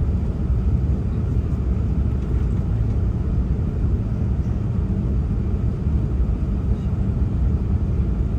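Steady low rumble of an Airbus A380 airliner coming in to land.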